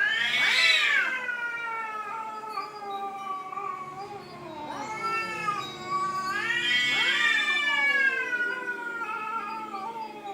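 Domestic cats yowling at each other in long, drawn-out, wavering calls that rise sharply and then slowly sink in pitch, swelling loudest about half a second in and again around seven seconds. This is the caterwauling of cats squaring off in a quarrel.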